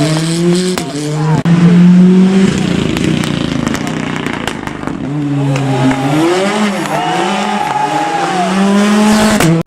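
Rally car engine revving hard at full throttle, its pitch climbing and dropping several times through quick gear changes, with sharp cracks scattered over it. It is loudest about two seconds in.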